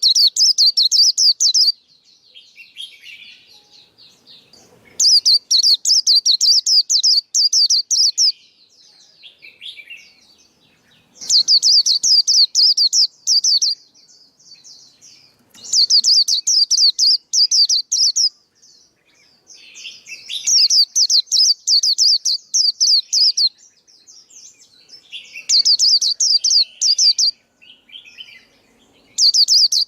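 Male white-eye singing: bursts of rapid, high, twittering notes, each lasting two to three seconds and repeated about every five seconds, with softer, lower chatter in between.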